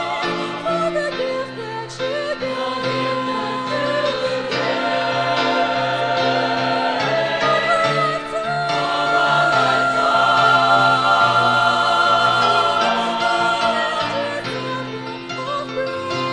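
Choir singing a Christian song in harmony, with sustained chords.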